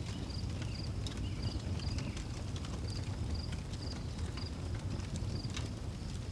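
Outdoor wood fire crackling, with scattered sharp pops over a steady low rumble, while a cricket repeats short, high, pulsed chirps.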